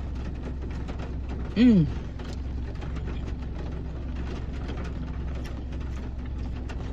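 Steady low hum of a car idling, heard inside the cabin, with a short hummed "mm" from a person eating about one and a half seconds in.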